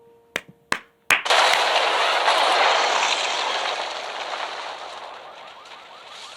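Film soundtrack of a car crash: three sharp knocks in quick succession, then a sudden loud crash of metal and shattering debris that slowly dies away over several seconds.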